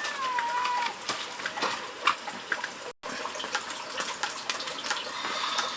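Water running and splashing, with scattered small knocks, and a short gliding chirp near the start.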